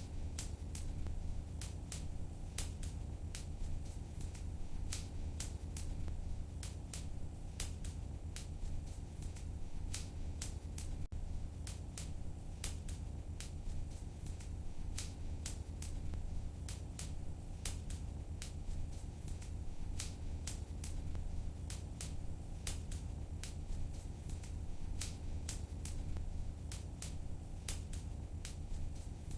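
Wood fire burning in a fireplace, crackling: frequent sharp, irregular pops and snaps, a few a second, over a steady low rumble of the flames.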